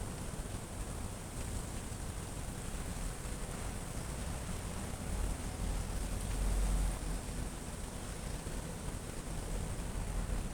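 Steady hiss of light drizzling rain over a low rumble, the rumble briefly louder about six to seven seconds in.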